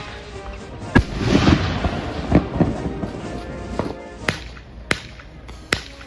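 Consumer fireworks going off over background music: a loud bang about a second in, then a stretch of crackling, then several single sharp cracks spaced roughly half a second to a second apart.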